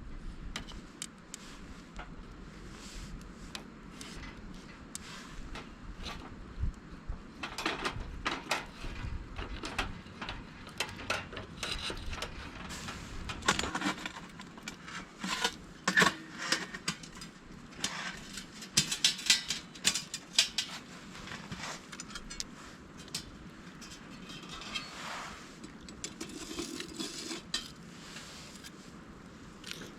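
Metal camp cookware and utensils being handled: scattered clinks and clatters, busiest in the middle stretch.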